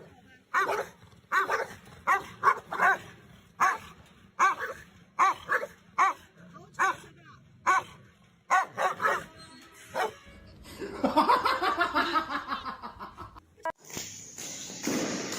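A dog barking: a long run of short, sharp barks, followed about two-thirds of the way through by a longer drawn-out sound.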